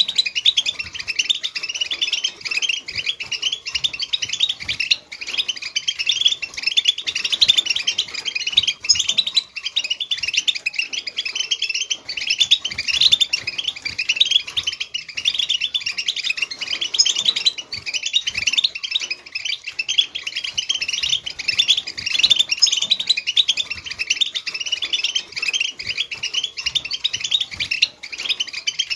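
European goldfinch twittering song: a continuous run of rapid, high chirps and trills with no pauses.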